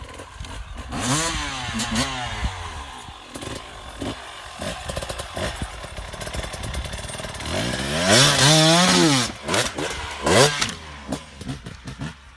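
Dirt bike engine revving up and dropping back several times, with the hardest, loudest rev about two-thirds of the way in, amid scattered knocks and clatter.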